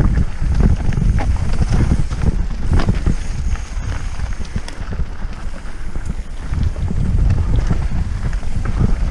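Wind buffeting the microphone with a heavy low rumble while riding a rocky trail, broken by scattered short clicks and knocks from the bike going over rough ground.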